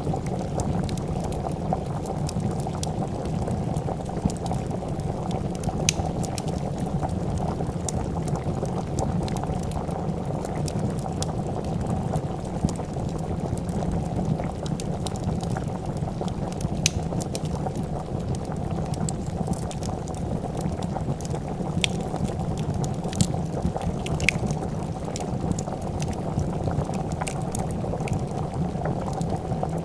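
A pot of soup boiling, a steady low bubbling, with scattered small crackles and pops of a wood fire over it.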